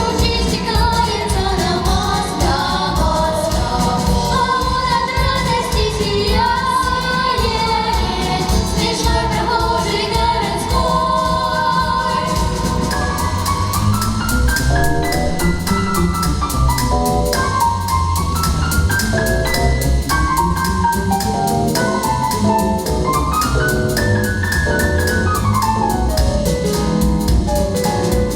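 Pop song with voices singing together over a backing track with a steady drum beat. In the second half the melody moves in rising and falling stepwise runs.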